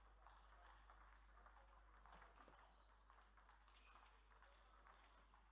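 Faint, rapid clicking of table tennis balls striking bats and tables, many knocks overlapping, with a few brief high squeaks.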